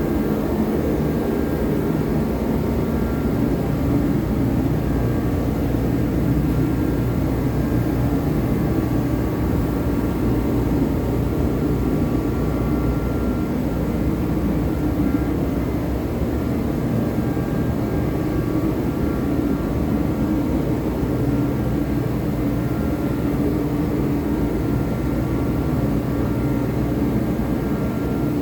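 Steady mechanical drone, with several thin whining tones held over it, not changing in level or pitch.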